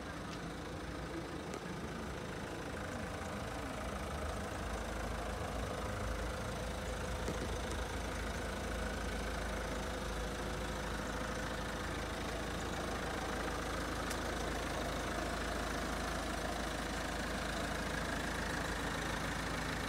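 Peugeot 308 SW's engine idling steadily.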